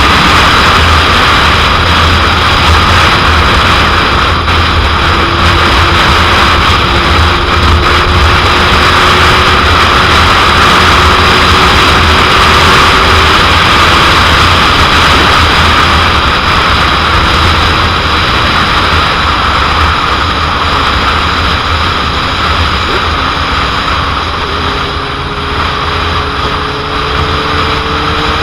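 Heavy wind buffeting on the microphone of a moving motorcycle, a 2001 Suzuki GSX-R750, loud and steady. The inline-four engine's note is faint beneath it and climbs slowly in pitch near the end.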